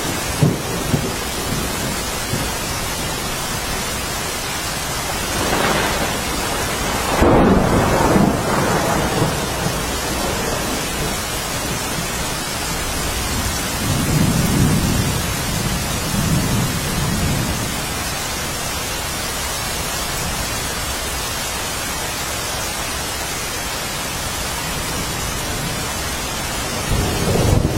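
Steady rain with a continuous hiss, and thunder rolling through it: a louder peal from about six to nine seconds in, a lower rumble around the middle, and another swell at the very end.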